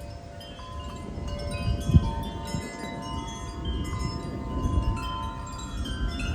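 Wind chimes ringing continuously in gusty wind, many overlapping tones struck again and again. Wind rumbles low on the microphone, with the strongest gust about two seconds in.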